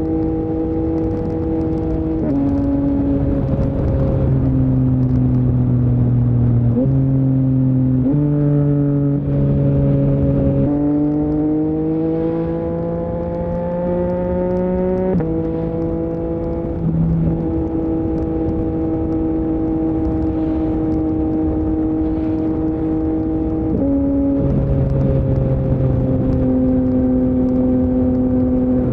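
Yamaha MT-09's three-cylinder CP3 engine running through an Akrapovic full-system exhaust while riding. The note holds steady at cruise, jumps abruptly in pitch several times as gears change, and climbs steadily under acceleration for a few seconds near the middle before dropping back. Wind rush sits underneath.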